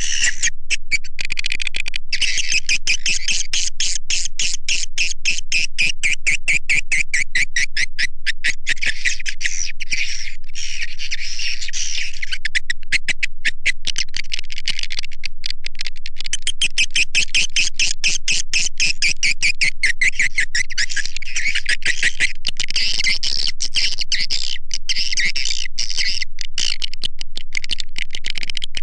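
Swiftlet lure call: a dense, unbroken twittering of many swiftlets, a stream of rapid high chirps and clicks. It is the kind of call track swiftlet farmers play to draw the birds into a nesting house.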